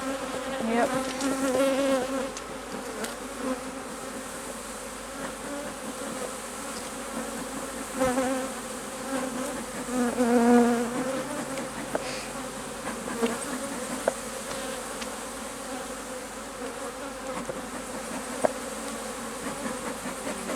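Honey bees buzzing around an open hive in a steady hum that wavers in pitch. It swells louder twice, about a second in and again around ten seconds in. A few light clicks come through near the middle and the end.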